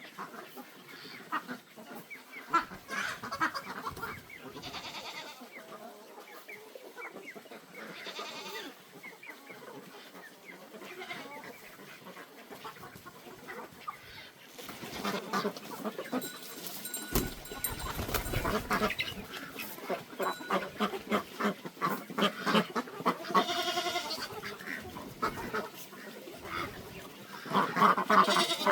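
Farmyard animals calling: poultry clucking with longer pitched calls among them, busier and louder from about halfway through.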